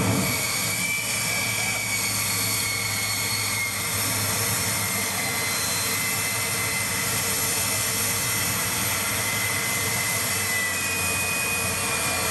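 Jet truck's jet engine running steadily: a high thin whine over constant noise, with the whine's pitch drifting slowly.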